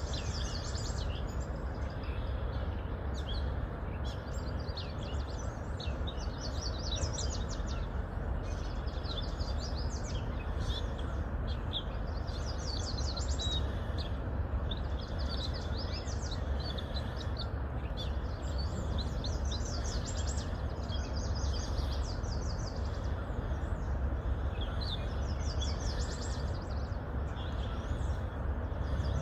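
Small birds chirping and trilling in repeated short phrases over a steady background rumble and hiss.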